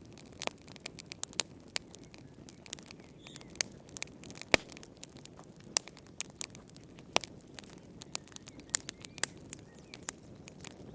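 Wood fire burning in a fireplace: irregular crackles and sharp pops over a low steady hiss, with one louder pop about four and a half seconds in.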